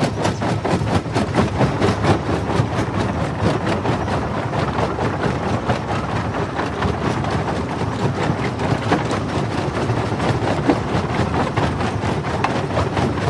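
Jaw rock crusher running and crushing stone: a continuous crunching and grinding, dense with irregular sharp cracks and knocks, over a steady heavy machine drone.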